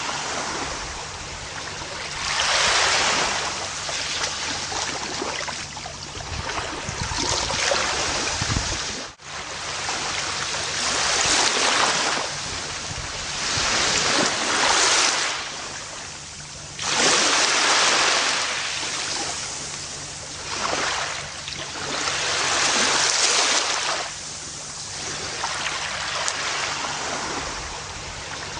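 Gentle ocean waves washing onto a beach. The surf swells and recedes in surges about every three seconds, with a brief sudden dropout about nine seconds in.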